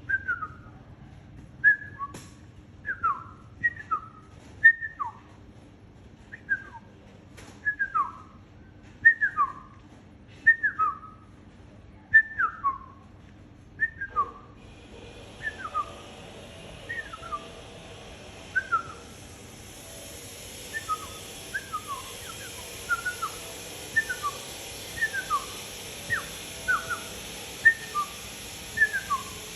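Repeated short whistled notes, each sliding down in pitch, coming in quick groups of two or three, over and over. A steady hiss joins the background about halfway through.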